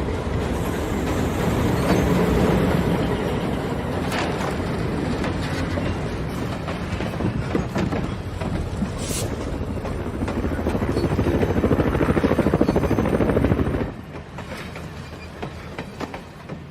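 Loud vehicle engine noise with a fast pulsing beat, building toward the end before it cuts off abruptly about fourteen seconds in.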